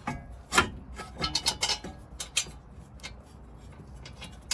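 Metal tools and parts clinking and clicking during hand work on a car's front suspension, a string of irregular sharp clicks, the loudest about half a second in and a quick cluster around the middle.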